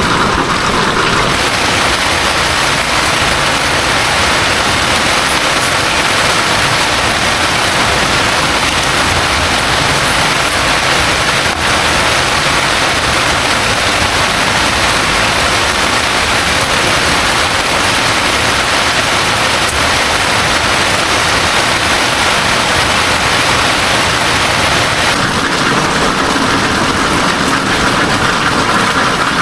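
Heavy rain falling steadily: a loud, dense, even hiss.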